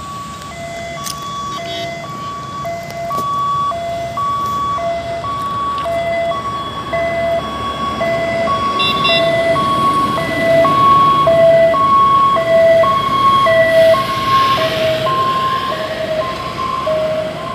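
Electronic warning beeper sounding a two-pitch beep about twice a second without a break, over road traffic noise that grows louder as a vehicle passes about ten seconds in.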